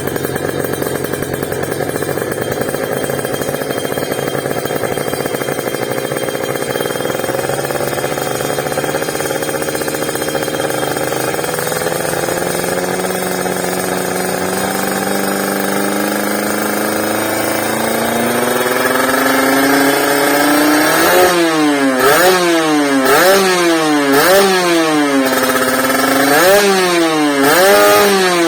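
Motorcycle engine through a Creampie ZZ1 aftermarket exhaust, idling steadily at first. The revs then climb slowly and evenly, and in the last seven seconds the throttle is blipped about once a second in a series of quick revs.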